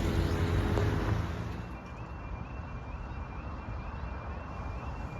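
A vehicle's engine drone fades away over the first two seconds, leaving a faint two-tone warbling level-crossing alarm that repeats steadily.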